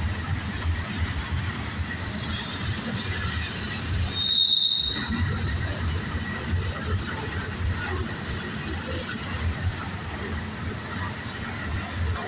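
Norfolk Southern freight train rolling past: steady low rumble of wheels on rail with a rapid clatter, and a brief high wheel squeal about four seconds in.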